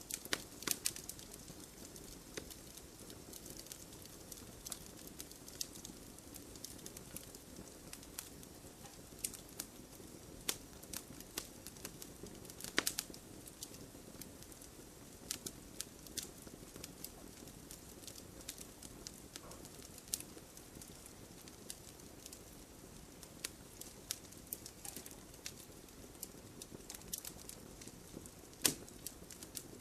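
Wood campfire burning: a low steady hiss with frequent irregular crackles and sharp pops, a few louder snaps among them.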